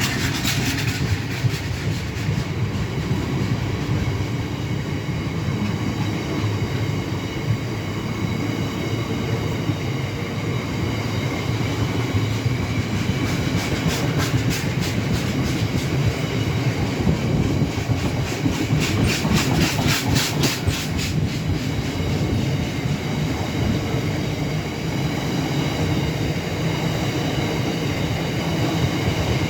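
Freight train of tank wagons rolling past: a steady rumble of steel wheels on rail, with runs of rapid clattering clicks partway through and again around two-thirds in. Several wagons have flat wheels, which knock as they go by.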